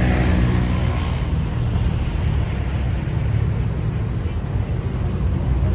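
Steady low rumble of motor vehicles running, with an engine's hum most prominent in the first second or so before easing.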